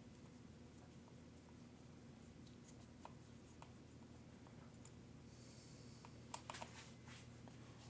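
Near silence over a low steady hum, with faint scattered clicks of small metal tools and hardware being handled, a brief hiss a little after five seconds, and a quick cluster of sharper clicks about six and a half seconds in.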